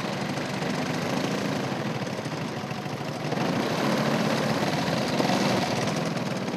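Gasoline engine of a large radio-controlled airplane running in flight, swelling louder about halfway through as it passes nearer, then easing off.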